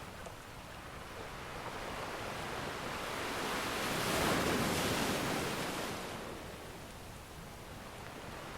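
Ocean surf: a wave swells, breaks about halfway through and washes back out.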